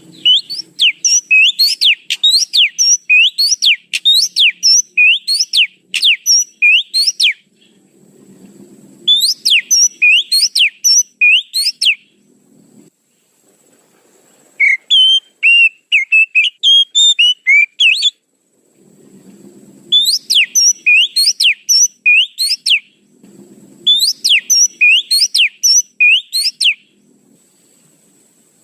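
Oriental magpie-robin (kacer) lure call: bouts of loud, sharp whistled notes, each a quick pitch glide, repeated several times a second, with short pauses between the bouts. Midway, a lower warbling phrase stands in for one bout.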